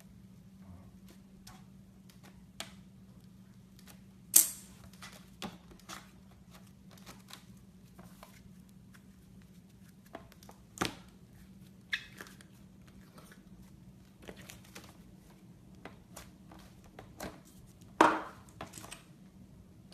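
Slime being handled, giving scattered short pops and clicks, the loudest about four seconds in and near the end. A faint steady hum runs underneath.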